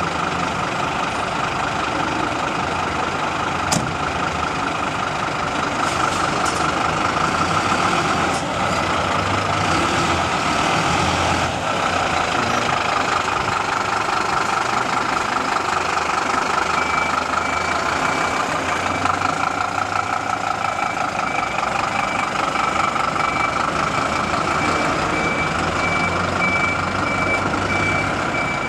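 Scania fire engine running as it pulls away on a call, with a steady high-pitched electronic tone over the engine and a rapid beeping that joins about halfway through.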